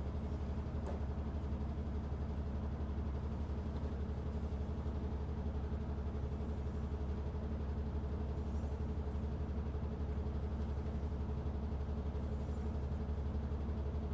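Steady low background hum throughout, with faint soft swishes every couple of seconds from a vegetable cleaver's edge being drawn along a coarse leather strop loaded with CBN compound.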